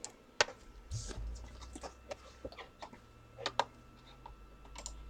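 Irregular light clicks and taps, about a dozen over a few seconds, from computer mouse clicking at a desk. Under them a faint low hum and a thin steady tone set in about a second in.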